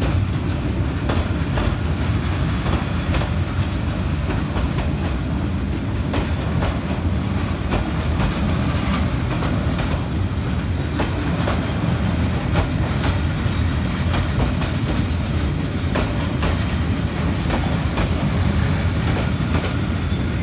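Passenger train coaches rolling past close by: a steady low rumble of wheels on rail, with wheels clicking over the rail joints.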